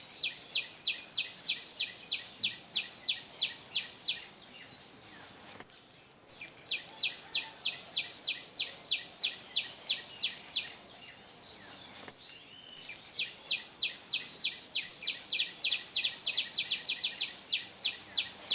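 A bird singing a fast series of sharp down-slurred notes, about four to five a second, in three bouts of around four seconds each. Behind it runs a faint steady high-pitched hum.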